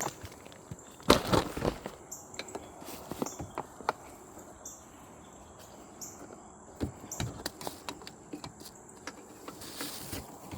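Insects chirping with a steady high buzz and short repeated chirps, broken by a few sharp knocks and rustles, the loudest about a second in.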